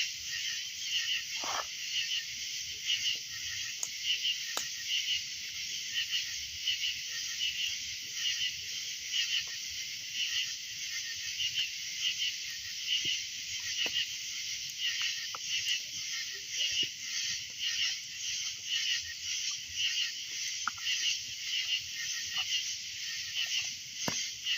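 A dense, high-pitched night chorus of calling animals, pulsing evenly about twice a second without a break. A few faint sharp crackles sound now and then.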